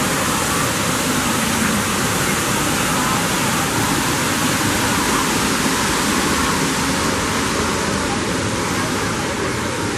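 Steady rush of falling and splashing water, with indistinct voices of people mixed in.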